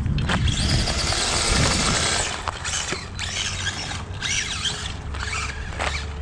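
Radio-controlled truck's electric motor whining and wavering in pitch as the throttle is worked, with a burst of hiss from about half a second in to about two seconds, as the wheels spin without grip on wet ground. A steady low rumble runs underneath.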